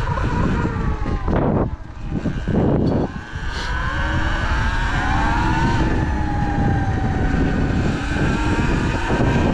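Sur-Ron Light Bee X electric dirt bike riding along, its electric drive giving a high whine that glides up and down with speed and climbs as it accelerates about halfway through, over a heavy rumble of wind on the microphone. Two short noisy blasts come about a second and a half and nearly three seconds in.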